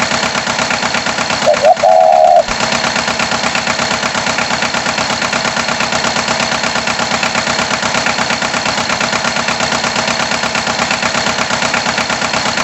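Cartoon farm tractor engine sound running steadily with a rapid even chugging, and a brief loud tone about one and a half seconds in.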